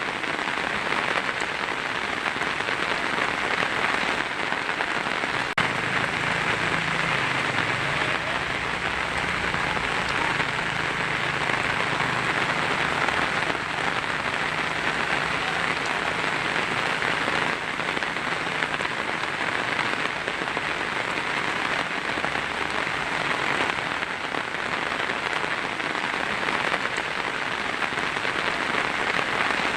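Heavy rain pattering steadily on a tin roof. A faint low rumble runs underneath from about six seconds in to around eighteen seconds.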